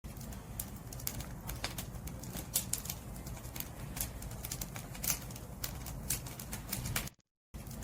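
Wood fire burning, with frequent irregular sharp crackles and pops over a low, steady rumble of flames. The sound cuts out completely for a moment near the end.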